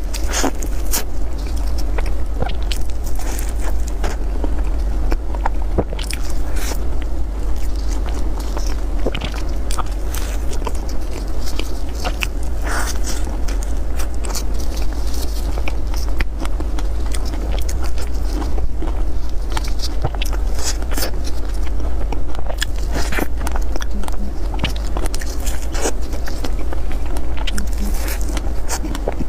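Cream puffs being bitten and chewed close to the microphone, with many short sharp clicks scattered irregularly throughout, over a steady low hum.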